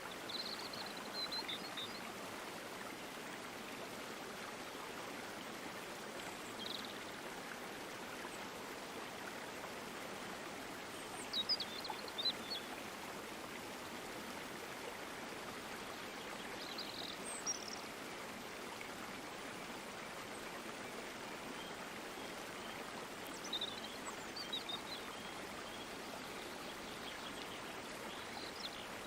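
A stream flowing steadily, with short high bird chirps heard a few times over it, loudest around the middle.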